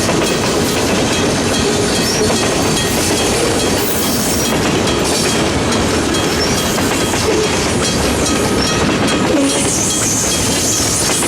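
Freight cars rolling past steadily, a continuous rumble and clatter of steel wheels on the rails, with brief faint wheel squeals now and then.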